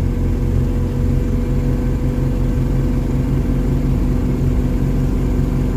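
Mercedes OM616 four-cylinder diesel engine running steadily while the car drives along, heard through a home-made exhaust with a Saab muffler.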